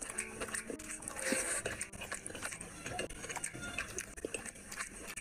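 Wet chewing and mouth smacking of a person eating rice and curry by hand, with many short irregular clicks and smacks.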